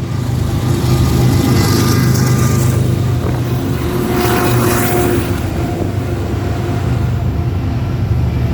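Union Pacific diesel-electric freight locomotives passing close by, their engines giving a loud, steady low drone with a higher whine coming and going midway, as the eastbound train works up the main line.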